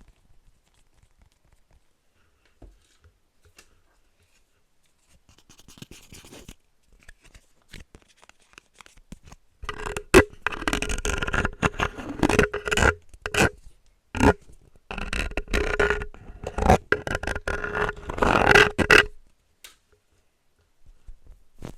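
Close scraping and scratching sounds: faint at first, then loud and dense with sharp clicks from about ten seconds in, pausing briefly, and stopping a couple of seconds before the end.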